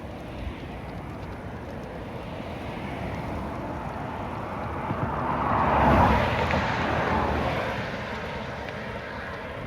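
A vehicle passing by: a rushing noise swells to its loudest about six seconds in, then fades, over a steady background rush.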